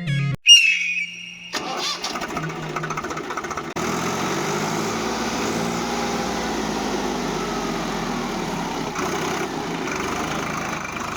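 A tractor engine starts about a second and a half in and then runs steadily, just after a short, loud sound.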